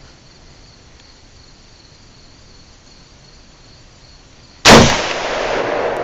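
Crickets chirping faintly and steadily, then, near the end, a single loud gunshot whose echo rolls away slowly.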